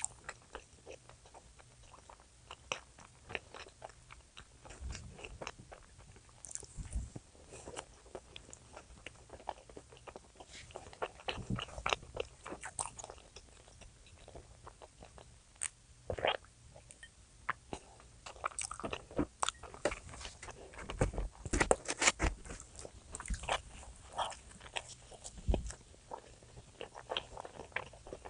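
A person eating close to the microphone: chewing and biting, with irregular crunching crackles and clicks, thickest about three quarters of the way through.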